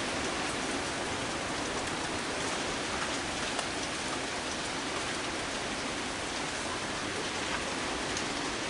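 Heavy rain falling steadily in a storm, a constant hiss of rain on the ground and nearby surfaces with a few faint drips and ticks.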